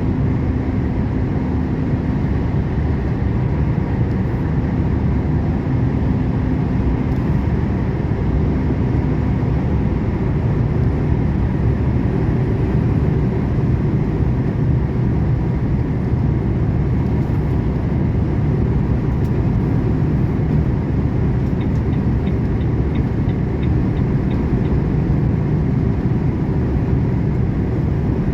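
Volvo truck driving on the road, heard from inside the cab: steady engine drone and road noise. A faint, evenly spaced ticking comes in during the last third.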